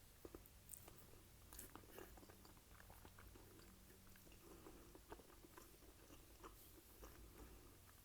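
Quiet, close-miked chewing and eating, with irregular small clicks.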